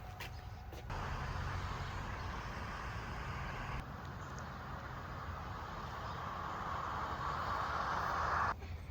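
Steady rush and low hum of a car on the move, in several abruptly joined stretches, swelling slightly before cutting off near the end.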